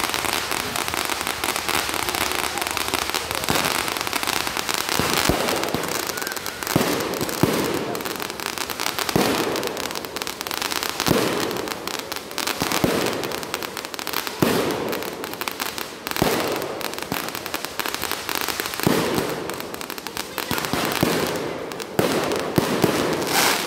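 Consumer fireworks: a ground fountain hissing and crackling steadily, with a sharp shot or bang going off about every one and a half to two seconds as aerial effects launch and burst.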